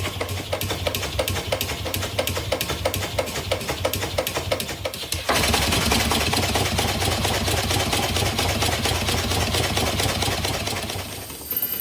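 Small model engine running with a regular beat, about five strokes a second. About five seconds in it cuts abruptly to a louder, faster-sounding run with a lot of hiss, which fades out near the end.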